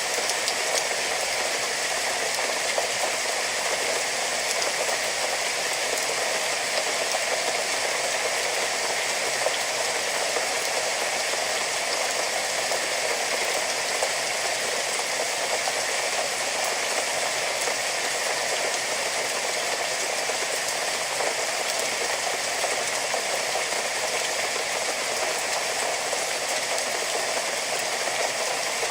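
Steady rain, an even hiss of many fine drops falling without let-up.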